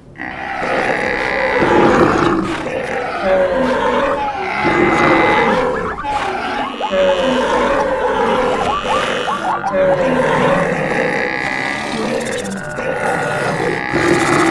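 A stampede sound-effect mix of many animals' calls, roars and grunts layered together without a break.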